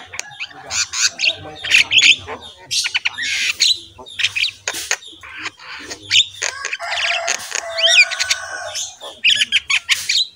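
Birds squawking and chirping in a dense run of short, overlapping calls, some gliding in pitch.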